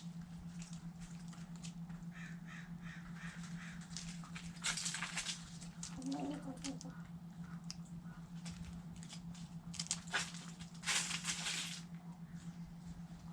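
Backyard chickens feeding on scraps: scattered pecking clicks and soft clucks, with two harsh, rasping squawks about five and eleven seconds in.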